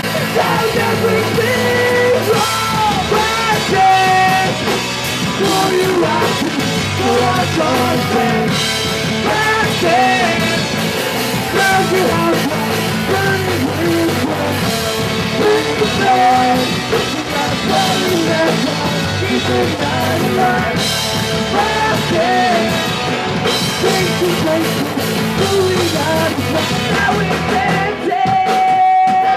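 Punk rock band playing live: loud drums, distorted guitars and bass under a sung lead vocal. The drums and bass drop out briefly near the end before the band comes back in.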